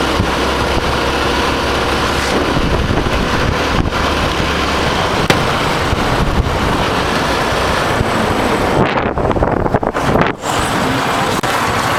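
Hero Honda Karizma motorcycle running on the road, with wind buffeting the microphone. The sound briefly thins out and dips about nine to ten seconds in.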